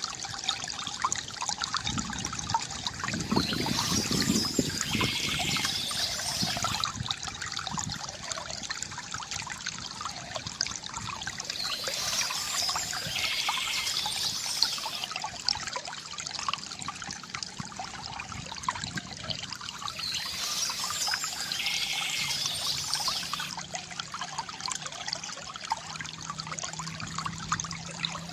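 Water trickling and pouring from a bamboo fountain in a steady, continuous gurgle, with a brighter, splashier passage returning about every eight seconds.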